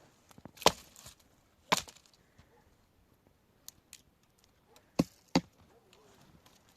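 Four sharp knocks or chopping strikes, irregularly spaced: two in the first two seconds and two close together about five seconds in, with fainter clicks between.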